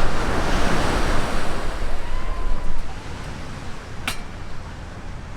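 Sea waves washing onto the beach, with wind rumbling on the microphone. The wash is loud at first and eases off about three seconds in, and a single sharp click comes about four seconds in.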